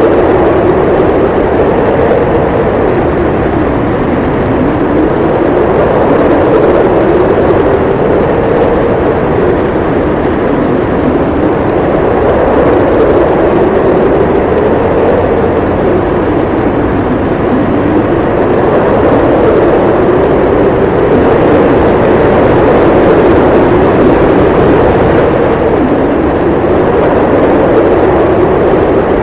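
Howling snowstorm wind: a steady, loud rush with a hollow tone that slowly rises and falls in pitch every few seconds.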